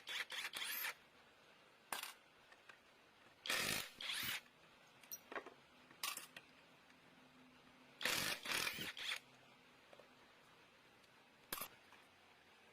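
Metal tools and small engine parts clicking and clattering as they are handled, in short bursts several times with pauses between.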